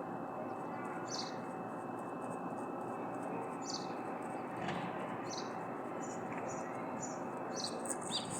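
Short high chirps of small birds, repeated every second or so, over a steady background noise.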